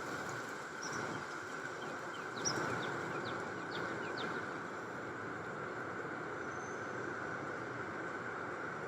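Approaching tornado's steady, train-like roar. A few short, high chirps sound over it about two to four seconds in.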